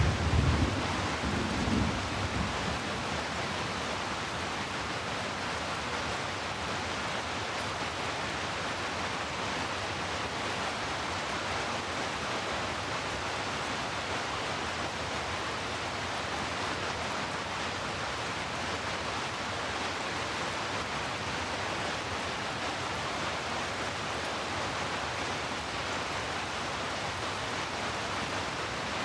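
Heavy rain falling steadily as an even hiss, with a low rumble that dies away in the first two seconds or so.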